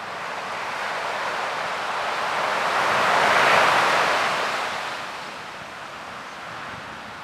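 Ocean wave surging in and breaking: a rushing wash that builds to a peak about halfway through, then dies back to a softer steady surf.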